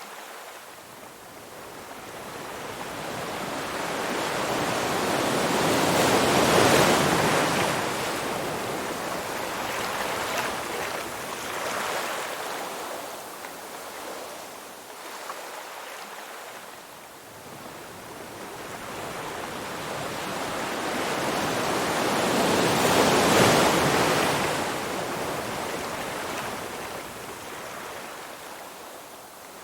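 Ocean waves surging and washing in, a continuous rush of water noise that builds and falls away slowly. Two large waves peak about a quarter and three quarters of the way through, with smaller swells between.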